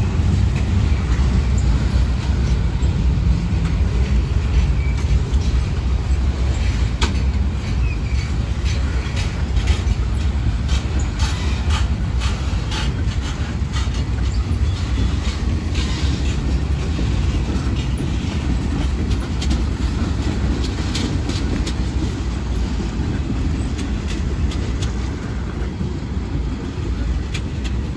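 Freight train rolling past: a steady low rumble with wheels clicking sharply and irregularly over rail joints, easing slightly near the end.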